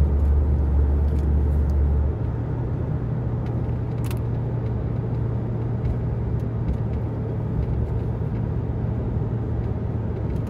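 Pickup truck engine and exhaust through a Walker Quiet-Flow muffler, heard inside the cab as a steady low drone while the truck slows for railroad tracks. About two seconds in, the drone steps up in pitch and gets a little quieter.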